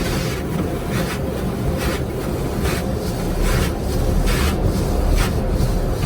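Automatic car wash rotating brushes swishing repeatedly over the car, about one sweep a second, over a steady low rumble of the wash machinery, heard from inside the car.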